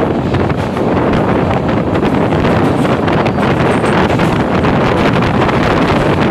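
Wind buffeting the microphone held out of a moving Punjab Mail passenger coach, over the steady running rumble of the train's wheels on the rails.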